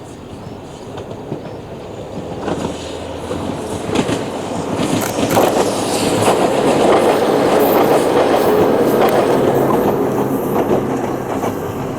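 Ohmi Railway electric train passing close by, its wheels clacking over the rail joints. It grows louder over the first half, is loudest past the middle, and eases a little near the end.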